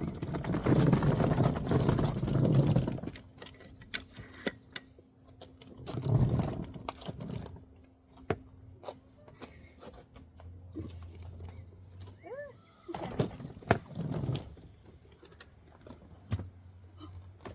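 A heavy rolling case being moved about and handled, as when loading it into a car trunk: three stretches of rumbling, scraping noise (at the start, around six seconds and around thirteen seconds) with scattered knocks in between.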